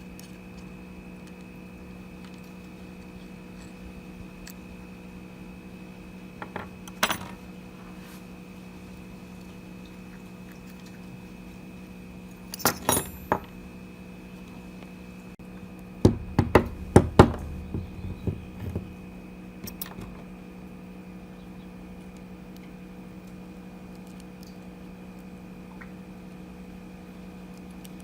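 Small metal parts clinking and clattering as they are handled and set down on a hard surface, in a few short bursts: once about seven seconds in, again near thirteen seconds, then a longer run of clatters a few seconds later. A steady low hum runs underneath.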